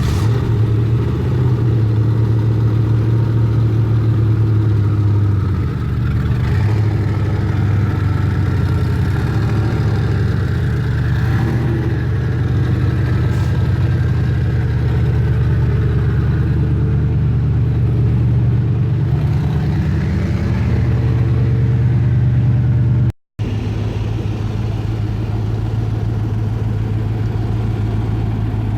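Supercar engines running at low revs, a loud, steady low drone with slight rises and falls in pitch. The sound drops out for an instant about 23 seconds in, then carries on.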